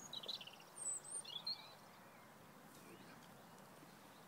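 Small songbird chirping in a few short, high phrases over the first second and a half.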